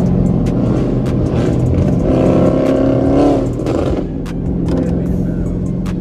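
Car engine running steadily, with a brief rise in pitch from about two seconds in that drops off after three and a half seconds.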